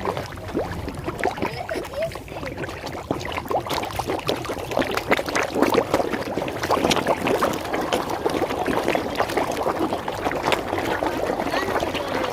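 Many rapid water splashes and churning as a crowd of large fish thrash at the surface competing for food, growing busier and louder about four seconds in.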